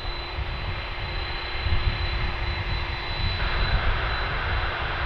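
Jet airliner engines at high power: a steady rushing noise over a deep rumble, with a thin steady whine. The noise grows brighter about three and a half seconds in.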